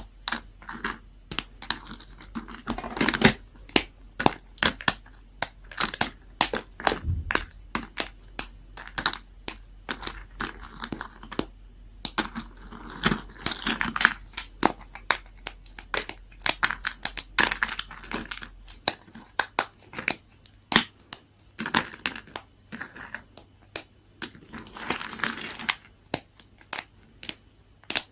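Very dry, leftover bar soap being cut with a blade, cracking and crunching as it breaks. It makes a dense run of sharp, irregular clicks and crackles, several a second.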